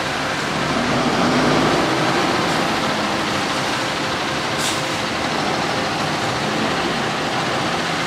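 Steady street traffic noise, a heavy vehicle such as a truck or bus running close by, with a short hiss about four and a half seconds in.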